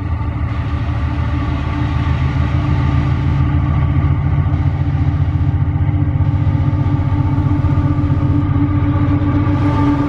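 Diesel locomotives of an empty iron-ore train running with a heavy engine drone, growing louder over the first couple of seconds, then holding steady.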